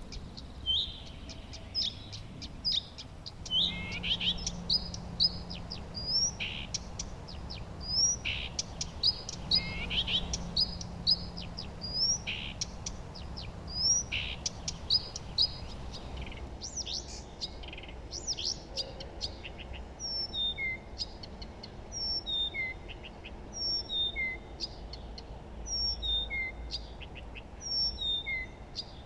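Several songbirds singing and chirping together, a dense mix of short whistles and trills. In the second half one bird repeats a short falling note about every second and a half.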